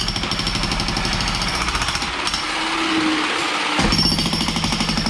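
Power demolition hammer breaking out masonry, hammering rapidly and steadily. Its heavy low pounding eases for a moment in the middle, then comes back harder near the end.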